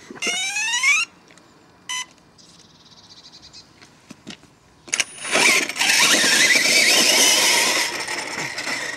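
Plettenberg brushless electric motor of a 1:5 scale RC monster truck whining up in pitch briefly, with a short beep-like tone about two seconds in. About five seconds in, the truck takes off loud, the motor and drivetrain whining with tyre noise, and it eases off near the end.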